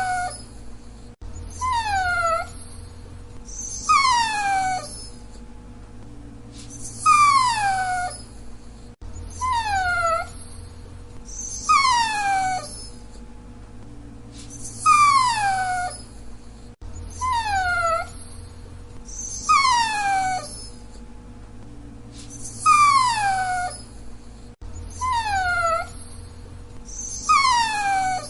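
Dachshund whining: high, drawn-out whines about every two and a half seconds, each one sliding down in pitch. The same short recording repeats every eight seconds or so.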